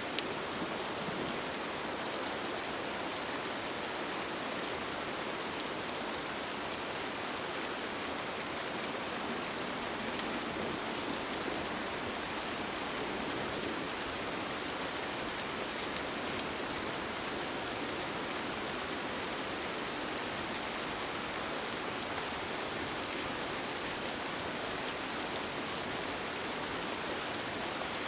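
Steady rain falling on a tent, an even hiss with scattered individual drops ticking through it.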